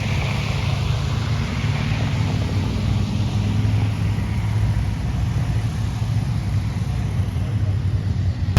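Vehicle engines running on the wet dirt track with a steady low rumble, as the track is run in and packed after rain.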